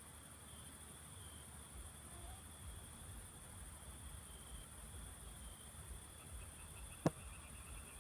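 Steady, high-pitched chirring of crickets, with a single sharp click about seven seconds in.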